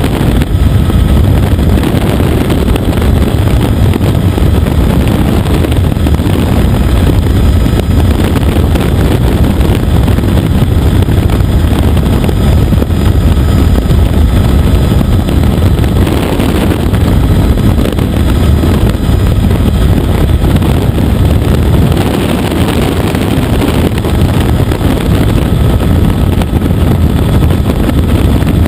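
Helicopter in flight: loud, steady engine and rotor noise, heaviest in the low end, with no break or change.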